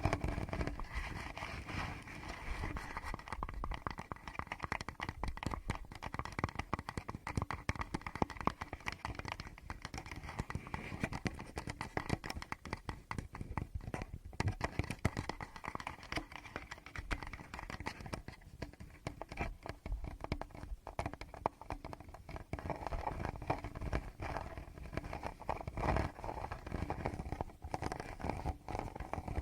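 Fingers tapping, scratching and rubbing directly on a Tascam recorder's microphones: a dense, continuous stream of close, soft taps and scratches.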